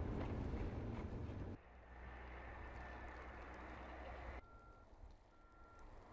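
Edited outdoor storm footage: a loud low vehicle rumble that cuts off about a second and a half in, then a steady low engine hum. Over the last second and a half, a vehicle's repeating reversing beeps sound at one even pitch.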